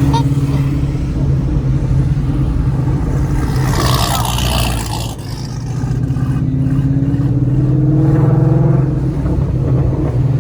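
Car engine running at low speed, with a brief rushing hiss about four seconds in and the engine note rising slowly later on.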